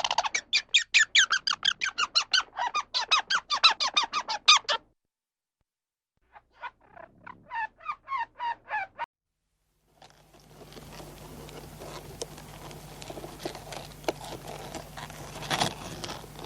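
Rapid high-pitched squeaky chirps from a small animal, about five a second, in two runs with a silent gap between them; after that, a low steady hum and background noise with faint clicks.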